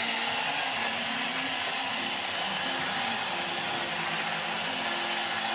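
Small electric motor running steadily with a high whine, driving a home-built model engine.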